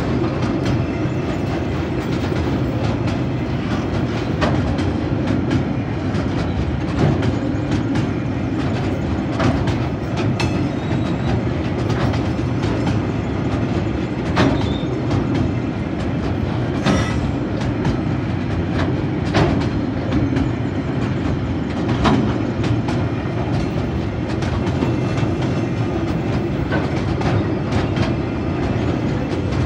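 Tasrail freight train's log and container wagons rolling past: a steady rumble of steel wheels on the rails, with a sharp click or knock every couple of seconds as wheels pass over rail joints.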